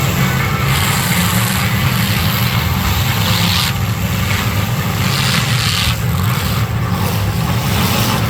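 Demolition derby car engines running loud and steady, with a noisy hiss that swells and fades every second or so.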